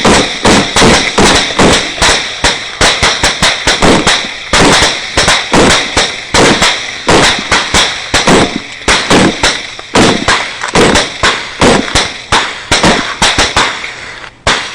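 Rapid gunfire, about four shots a second without a break, the shots irregularly spaced and sometimes overlapping, each with a short echoing tail.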